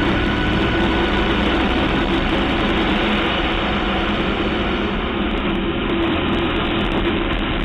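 KTM LC4 supermoto's single-cylinder four-stroke engine running steadily at cruising speed, heard from the bike's onboard camera along with wind and road noise.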